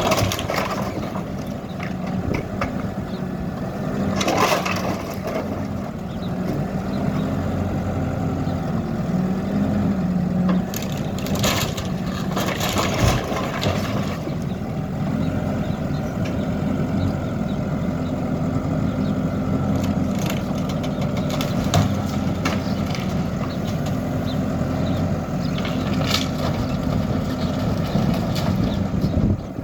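Backhoe loader's diesel engine running steadily under work, with crunching and cracking of demolition rubble. Louder crashes come a few seconds in, twice around the middle, and near the end.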